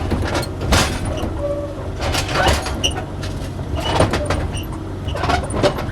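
Kubota KX-040 mini excavator's diesel engine running steadily, with several sharp clanks and knocks from the machine at intervals, as it is moved to be loaded.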